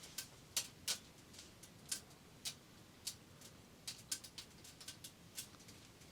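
Faint, irregular sharp ticks, about two or three a second, over a quiet background.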